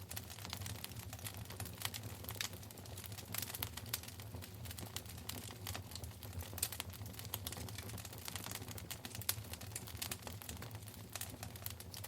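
Wood fire in a fireplace crackling: many sharp, irregular pops and snaps, with a steady low hum underneath.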